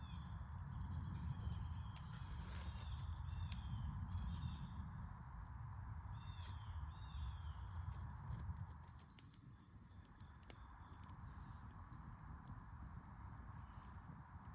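Steady evening chorus of insects, a high shrill band that holds throughout, with a few short chirps twice early on and a low rumble that eases off about nine seconds in.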